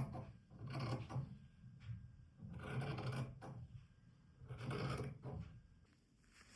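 Fabric being handled and rubbed, four rustling swishes about two seconds apart.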